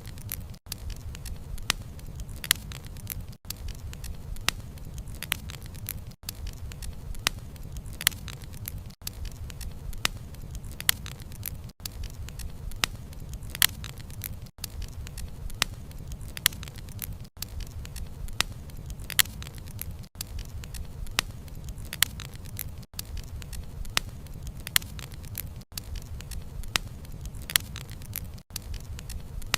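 Bonfire crackling: wood snapping and popping in sharp, irregular clicks over a steady low rumble of the flames. The sound dips briefly about every three seconds.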